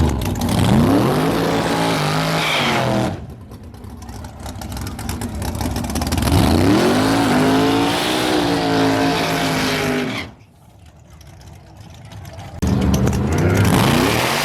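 Car engines accelerating hard, the pitch climbing steeply, in separate short bursts. A steadier engine note follows near the end.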